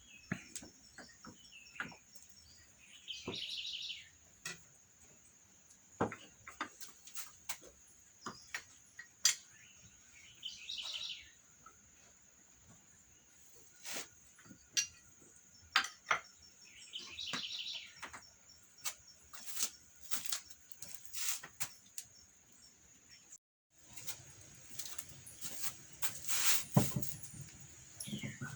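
A bird calls three times, a short call about every seven seconds, over a steady high insect drone, with scattered clicks and knocks of handled objects throughout. Near the end, after a brief break in the sound, louder rubbing and scraping noises take over.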